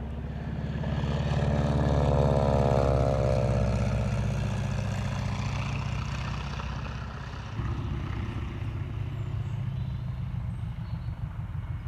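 Training aircraft's engine passing on its landing approach: it grows loudest about two to three seconds in, its pitch falling as it goes by, then settles to a steadier, lower engine sound.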